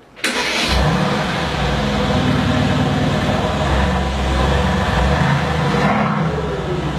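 Mercedes-AMG GT S 4.0-litre twin-turbo V8 running hard, its pitch wavering a little as the throttle works. It cuts in abruptly just after the start.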